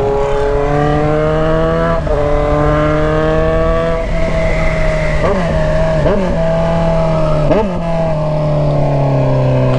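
Kawasaki Z900RS inline-four engine running through an aftermarket stainless-steel 4-into-1 header and straight-through 'canela seca' muffler, heard on board while riding. It holds steady revs, with three quick dips and recoveries in pitch midway, and the revs slowly fall near the end.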